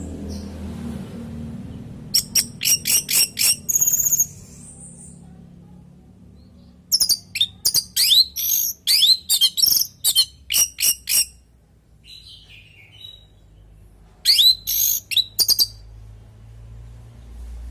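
Orange-headed thrush singing: three fast strings of sharp, high notes, separated by a few seconds of pause. A faint low rumble runs underneath.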